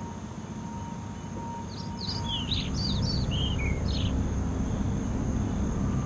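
A songbird sings one short phrase of quick chirps, about two seconds in, stepping down in pitch as it goes, over a steady low outdoor rumble.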